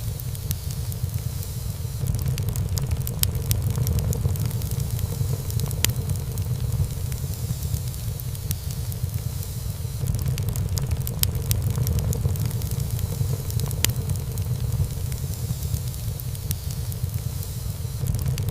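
Wood fire burning in a fireplace: irregular crackling with scattered sharp pops of burning wood, over a steady low rumble of the flames.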